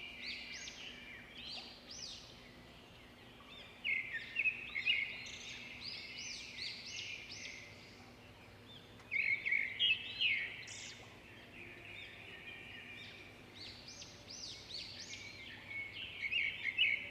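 Birds singing and chirping in a dense chorus of quick, high chirps and trills, with louder bursts of song about four seconds in, around nine to ten seconds, and near the end.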